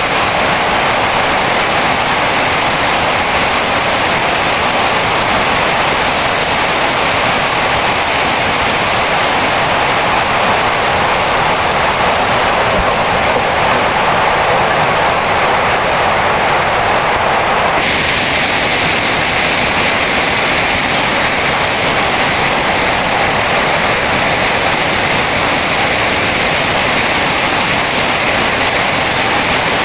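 Heavy rain pouring down steadily in a dense, even rush, its tone shifting suddenly about eighteen seconds in.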